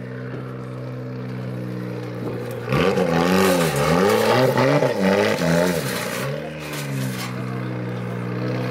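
A car engine idling, revved in a run of quick blips from about three to six seconds in, the pitch rising and falling several times before it settles back to a steady idle.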